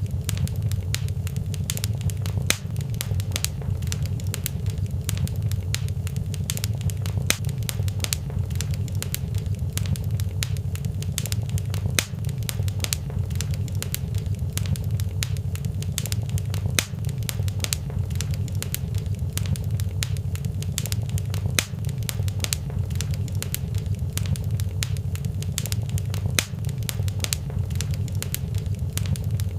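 Fireplace fire burning, with frequent irregular crackles and pops over a steady low rumble.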